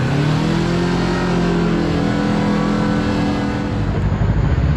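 Kawasaki KRX4 1000 side-by-side's parallel-twin engine revving up as it pulls away at low speed, holding a steady pull, then easing off about four seconds in.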